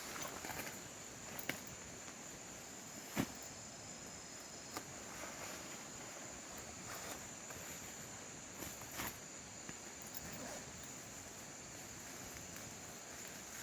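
Steady high-pitched drone of insects in forest, with a few scattered sharp clicks or knocks, the loudest about three seconds in.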